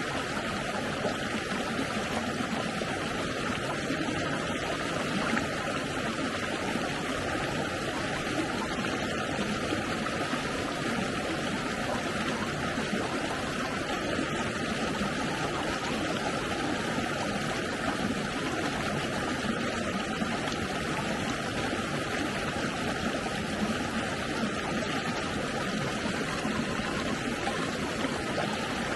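Flowing stream water: a steady, even rushing and trickling that doesn't change.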